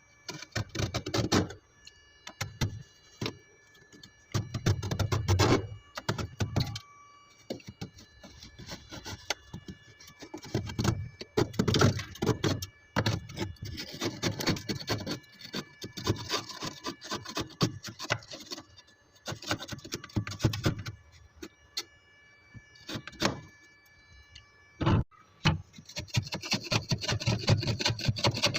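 Freezer frost being scraped and crunched: a run of scratchy, gritty strokes about a second or two long, separated by short pauses and sharp clicks.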